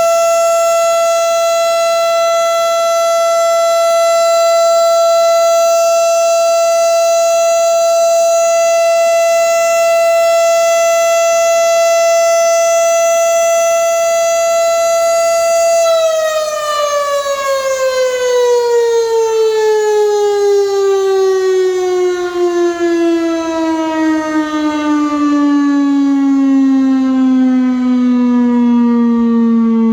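Tornado warning siren sounded for a drill. It holds a steady high tone, then about halfway through begins winding down, its pitch sliding steadily lower to the end.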